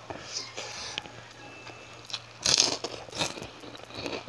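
Close-miked chewing and crunching of a mouthful of fried milkfish (bangus), in irregular bites, loudest about two and a half seconds in.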